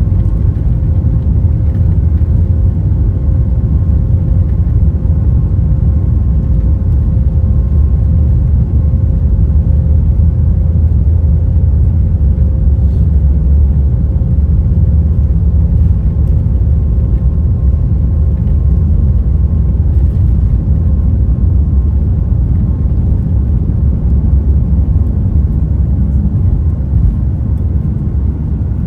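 Jet airliner cabin noise: a loud, steady low rumble of the engines and rushing air, with a faint steady hum over it.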